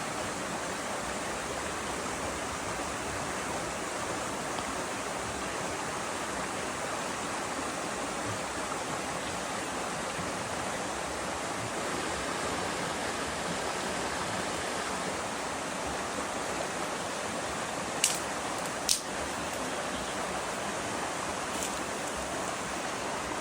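Steady rush of running water. Two sharp clicks about a second apart near the end.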